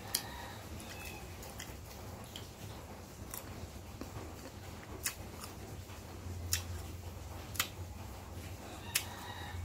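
Crisp bites and chewing of raw unripe green mango slices: six sharp crunches at uneven intervals, over a low steady hum.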